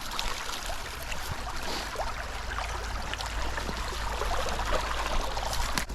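Footsteps wading through shallow creek water: a steady run of small splashes and sloshes, over a low steady rumble.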